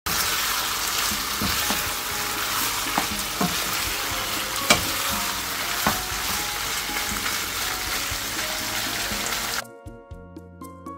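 Spicy pork belly and onion in gochujang sauce sizzling hard in a frying pan as it is stir-fried with two wooden spatulas, with a few sharp knocks of the spatulas against the pan. The sizzling cuts off abruptly near the end and soft piano-like music takes over.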